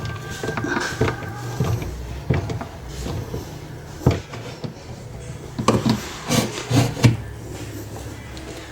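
Scattered knocks, clicks and rubbing of parts and tools being handled during washing-machine repair work, with a steady low hum underneath. A cluster of sharper knocks comes about six to seven seconds in.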